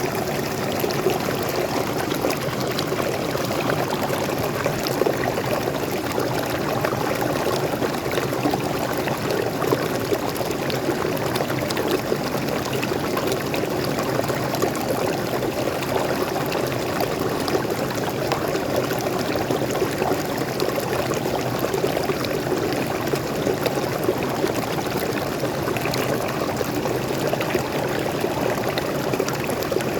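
Small waterfall and forest stream: water splashing and flowing steadily, with a full low rush and fine splashes over it.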